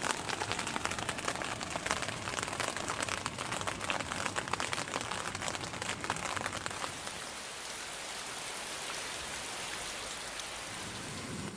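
Heavy rain falling on a membrane tent: a dense patter of drops that eases into a smoother, steadier hiss about seven seconds in.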